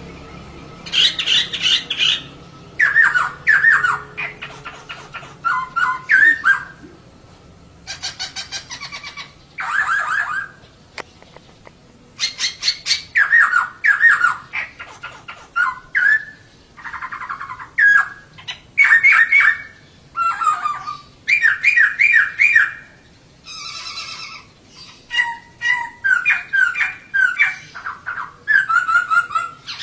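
Female poksay (laughingthrush) calling: bursts of rapid, short chattering notes, repeated every second or two with brief gaps. This female call is used as a lure to set male poksay singing.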